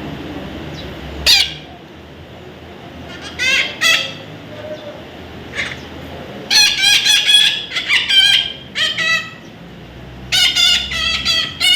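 Young parrot calling: a few separate squawks, then longer runs of quick repeated calls from about six and a half seconds in and again near the end.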